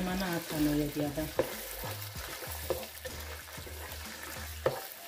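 Tomato paste and sliced onion frying in oil in a pot, sizzling as a wooden spatula stirs and scrapes through it, with a few sharp knocks of the spatula against the pot.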